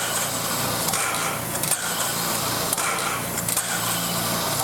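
Steady rushing noise with a low hum from the Er-series steam locomotive, broken by several sharp knocks.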